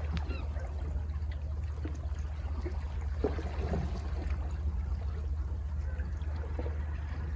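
Calm sea water lapping and trickling at the foot of cliffs, small splashes and dribbles over a steady low rumble.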